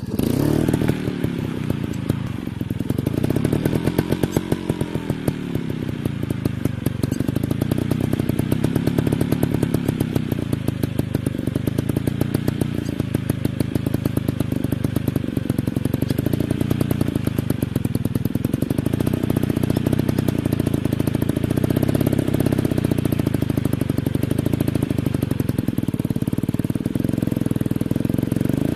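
Dirt bike engine running continuously, revving up and down as the bike is ridden, with the pitch rising and falling most clearly in the first few seconds.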